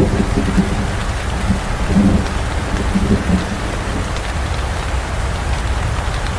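Steady heavy rain, with a low rolling rumble of thunder in the first few seconds that dies away about three and a half seconds in.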